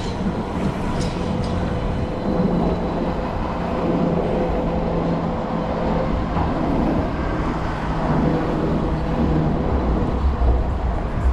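City street traffic noise with a steady low hum, heard from a moving e-bike.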